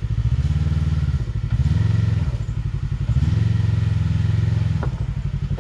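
Side-by-side UTV engine running low and steady, given three surges of throttle as it crawls up a rock ledge.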